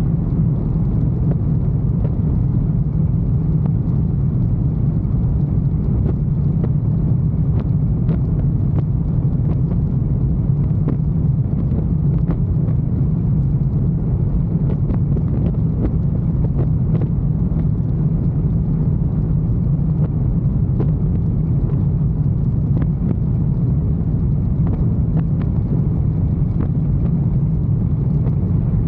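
Motorcycle riding at a steady speed: a continuous low rumble of engine, road and wind noise on the microphone, with no change in speed.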